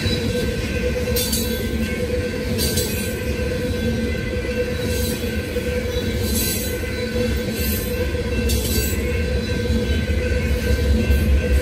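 Loaded freight train tank cars rolling past close by: a steady rumble of steel wheels on rail, with brief high squeals every second or two.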